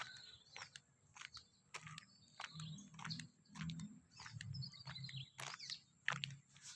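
Faint outdoor sound: scattered short clicks and crunches, with brief bird chirps and a low murmur in the background.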